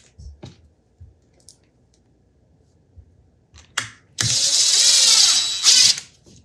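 Cordless drill running for about a second and a half, driving a screw home, after a few light handling clicks. Its motor whine wavers slightly in pitch, and it stops with a short final burst.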